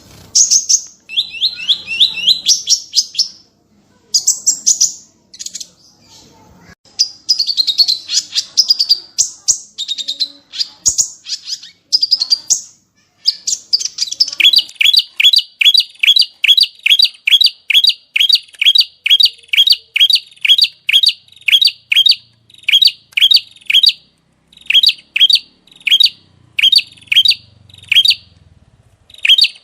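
Small songbird singing: rapid, varied high trills for about the first half, then a long run of sharp repeated notes, about three a second, each dropping in pitch, broken by short pauses near the end.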